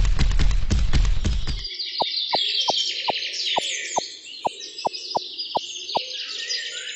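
A loud crashing rumble dies away in the first second and a half. Then birds chirp over a steady run of short falling plop tones, about three a second.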